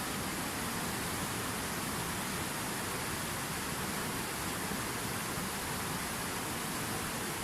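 Fountain waterfall: water falling and splashing in a steady, even rush.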